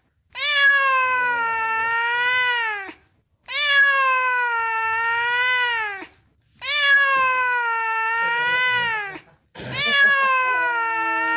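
Domestic cat giving four long, drawn-out meows, each about two and a half seconds, rising and holding before falling off at the end, with short pauses between them.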